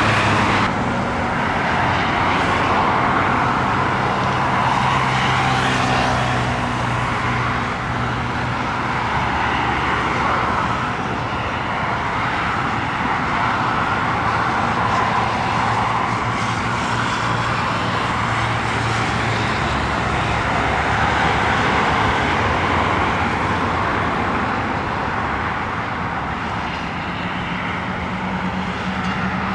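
Jet airliner engine noise: a steady rushing sound with a low hum underneath, and a second low hum coming in near the end.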